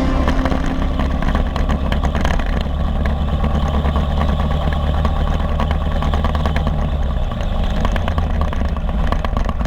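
Motorcycle ride through city traffic: steady engine and road noise dominated by a deep, even rumble.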